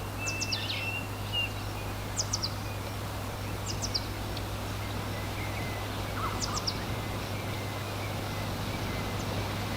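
Wild birds chirping: short, high, quickly falling chirps in groups of two or three, every second or two. Under them is a steady low hum and a background hiss.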